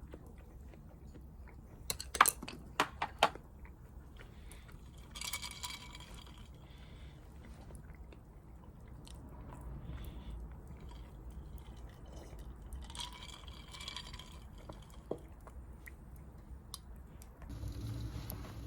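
Someone eating: chewing, with four sharp clicks about two to three seconds in and two brief crunching rustles later.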